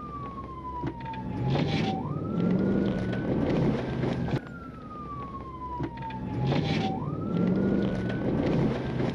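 Police cruiser siren wailing: a slowly falling tone that sweeps quickly back up, repeating about every four and a half seconds, over steady vehicle and road noise.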